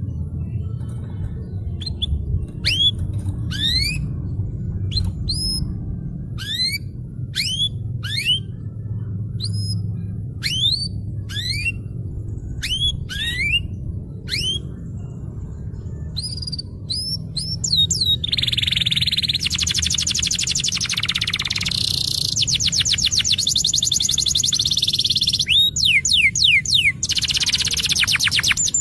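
Domestic canary singing: a string of separate, quickly rising whistled notes, then about eighteen seconds in it breaks into long, fast rolling trills. A steady low rumble runs underneath.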